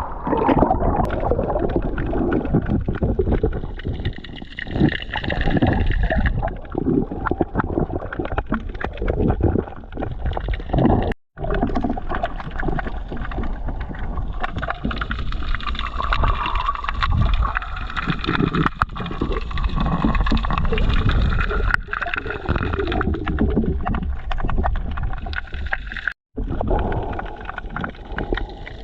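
Muffled underwater water noise from a diver's camera: sloshing and gurgling with a steady deep rumble, cut off abruptly twice.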